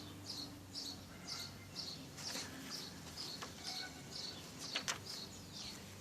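A bird chirping over and over, short high chirps about twice a second, with a faint steady hum underneath.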